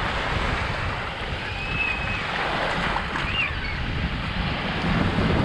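Sea surf washing on a beach with wind buffeting the microphone, steady throughout, with a couple of faint, short high whistles in the background.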